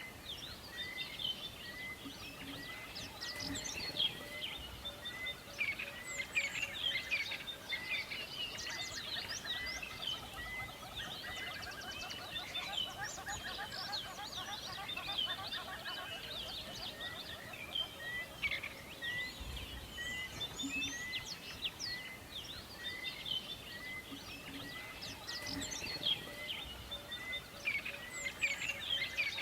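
Forest bird chorus: many birds chirping and trilling at once over a soft background hiss. One bird repeats a short call steadily, about every two-thirds of a second.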